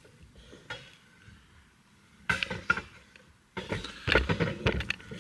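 Metal parts clinking and clattering as they are handled. A sharp knock comes about two seconds in, followed by a run of rapid clinks and knocks near the end.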